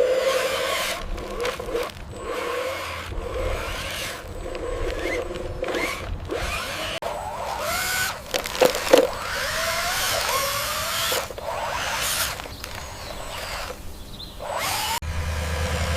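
Small electric motors and gearboxes of remote-control construction models whining, the pitch rising and falling as they speed up and slow down, broken by a few abrupt cuts. A low steady hum comes in near the end.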